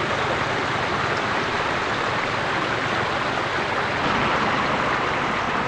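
Floodwater rushing steadily across a road, a continuous even noise.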